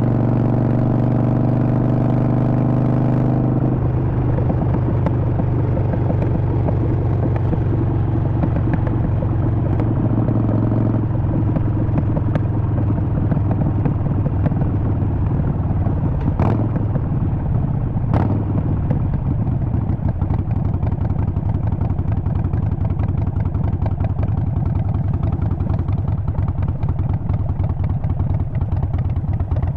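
Harley-Davidson Sportster Forty-Eight's 1200 cc air-cooled V-twin running while the bike is ridden. The note is even for the first few seconds, then changes and turns rougher about three and a half seconds in. Two short clicks come near the middle.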